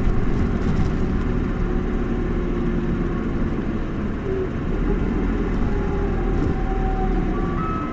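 Isuzu Erga city bus in motion: its four-cylinder diesel engine running steadily under road noise, with the low rumble swelling a little about two-thirds of the way in.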